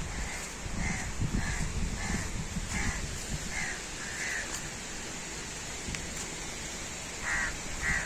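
A bird calling over and over: short calls less than a second apart for about four seconds, then a pause and two louder calls near the end, over a steady low rushing noise.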